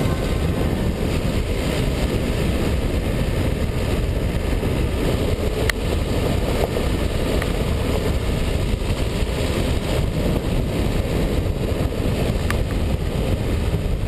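Steady driving noise of a Dacia Duster 1.5 dCi diesel 4x4: engine and tyre rumble, with a couple of faint clicks.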